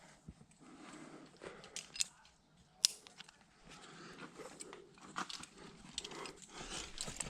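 Climbing gear and rope being handled: scattered small clicks, scrapes and crunches, with one sharp click about three seconds in.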